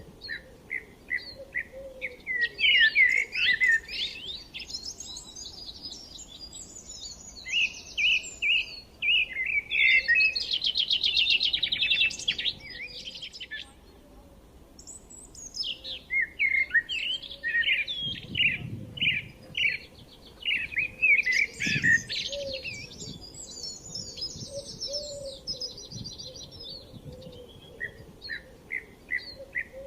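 A small bird singing: a run of short, evenly spaced chirps leads into busy twittering and a fast trill. The song breaks off about halfway through, then starts again with the same chirps and twittering.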